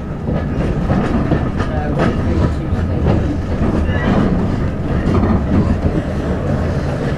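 Moving passenger train heard from inside the carriage: a steady low rumble of the wheels running on the rails, with scattered clicks and knocks.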